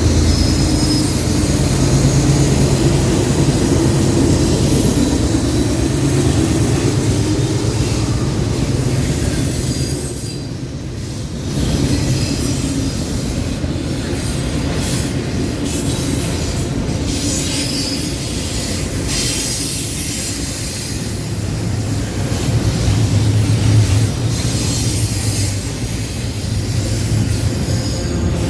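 Intermodal freight train cars rolling past on a curve, with steady wheel and rail noise and high wheel squeal, and a low hum that swells again near the end.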